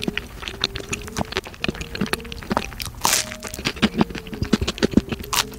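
Close-miked chewing of a crisp-crusted tiger bagel: a dense run of small crunches and wet mouth clicks, with a brief louder hiss-like sound about three seconds in.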